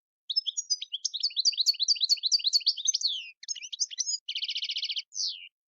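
European goldfinch singing: a fast run of twittering, falling notes, then a buzzy trill about four seconds in, ending on one falling note.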